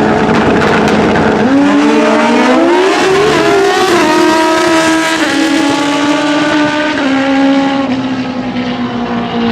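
Drag-racing motorcycles launching off the line: engines held at steady revs, then from about a second and a half in they climb sharply in pitch with a couple of gear shifts and draw away down the strip, their pitch slowly falling.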